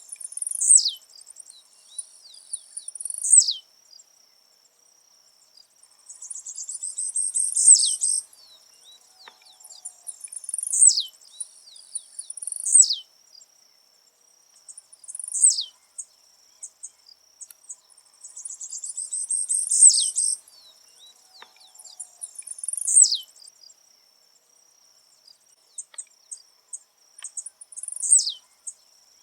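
Blue-black grassquit (tiziu) singing: a series of short, high notes, each sweeping sharply down in pitch, repeated every two to three seconds, with a longer buzzy chatter twice. A steady high-pitched insect drone runs underneath.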